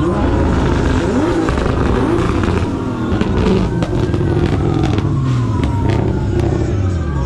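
Several car engines running and revving at once, their pitch climbing and falling, with a few sharp cracks like exhaust pops about halfway through.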